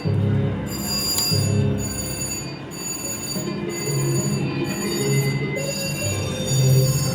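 Video slot machine playing its electronic game music with bell-like ringing tones, pulsing about once a second.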